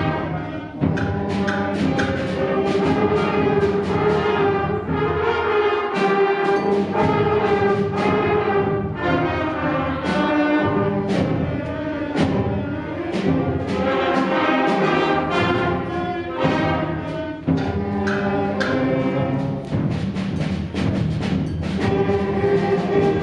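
Middle school concert band playing: held brass and wind chords, punctuated by frequent percussion strikes.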